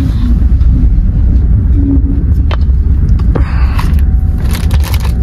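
Steady low rumble of a passenger train running, heard from inside the carriage, with a few sharp clicks over it.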